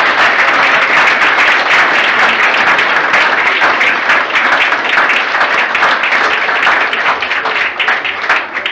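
Audience applauding, a loud, dense run of clapping that thins out into separate claps near the end.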